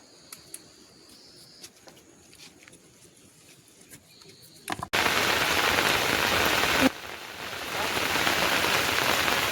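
Faint quiet with a few small clicks, then, about halfway through, an abrupt switch to heavy rain falling on surfaces: a loud, steady hiss that dips for about a second and then builds back up.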